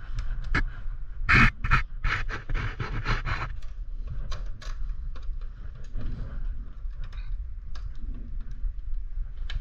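Hands working a mountain bike's shifters and drivetrain: scattered sharp clicks and scraping, with a run of rough, noisy bursts between about one and three and a half seconds in.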